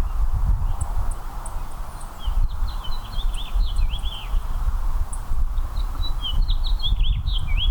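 A small songbird sings two runs of quick, warbling chirps, the first about two seconds in and the second near the end, over a steady low rumble.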